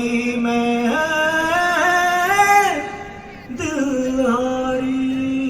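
A man singing long, drawn-out notes with no clear words. The first phrase climbs in steps and breaks off under three seconds in; after a short pause a second held phrase begins.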